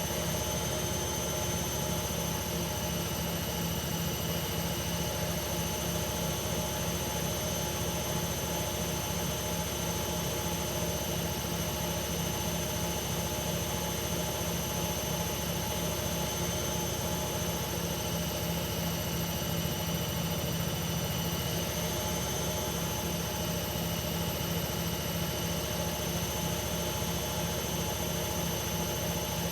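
Hoover Ecologic 1300 front-loading washing machine spinning its drum at a steady high speed, a steady high whine over a rushing noise.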